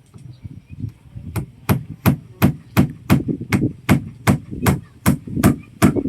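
Hammer strikes in a steady, rapid run of nearly three blows a second, light at first and settling into full, even blows about a second in.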